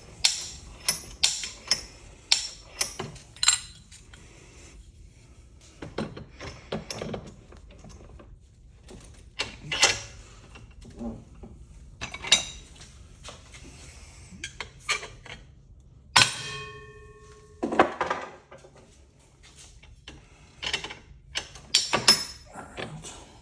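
Metal parts of a ceiling fan motor being worked apart by hand: a run of clinks, clicks and knocks as the housing is turned over and pried and struck. About two-thirds of the way through, one hard knock sets a metal piece ringing for about a second.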